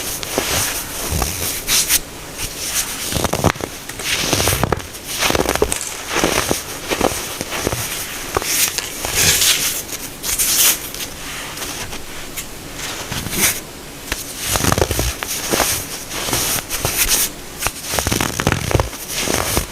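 Compacted baking soda crunching and crackling as it is crushed, in repeated irregular bursts with brief quieter gaps between them.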